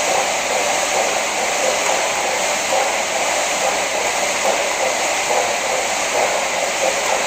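KayakPro paddle ergometer's air-resistance flywheel fan spinning under continuous paddling, a steady whirring rush of air.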